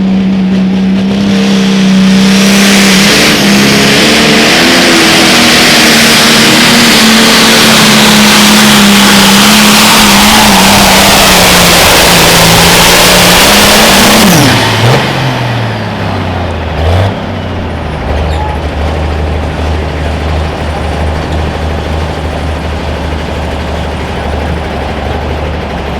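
Pulling tractor's engine at full throttle down the track, with a loud rushing noise over it. About fourteen seconds in the engine is shut back, its pitch falling steeply, and it settles to a low, steady idle.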